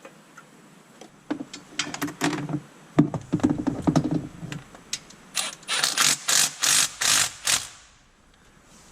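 Metal clattering and knocking as a transmission bell housing is fitted against the engine, then a string of about eight short, sharp bursts from a wrench as its bolts are run in and tightened.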